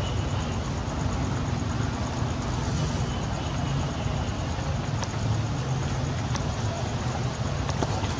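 Steady outdoor background noise with a low rumble, and a few faint clicks near the middle and end.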